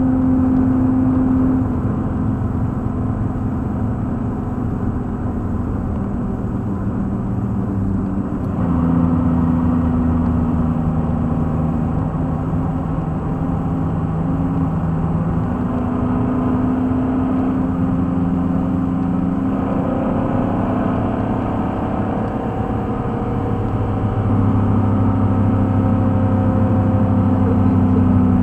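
Pontiac Fiero's engine heard from inside the cabin while it is driven hard on a road course. Its note steps up and down with throttle and gear changes over steady road and wind noise. The pitch climbs about twenty seconds in, and the note grows louder a few seconds later.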